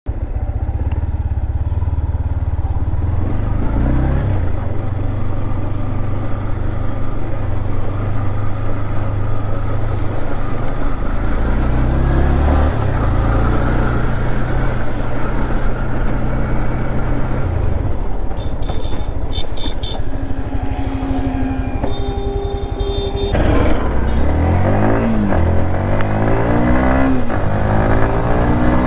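Modified Yamaha MT-15's 155 cc single-cylinder engine running at speed, with the engine pitch climbing as it accelerates a few times and a quick series of rising sweeps through the gears near the end. A steady high tone sounds briefly twice about two-thirds of the way through.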